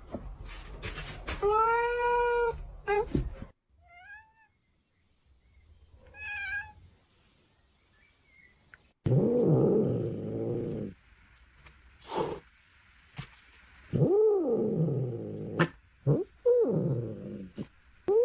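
Cats meowing and yowling: several separate drawn-out calls that rise and fall in pitch, with a longer, rougher yowl about nine seconds in.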